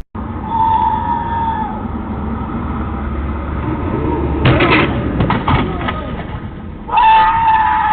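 Traffic noise with a car horn blaring twice: once for about a second near the start and again, longer, near the end. In between comes a cluster of sharp knocks and clattering.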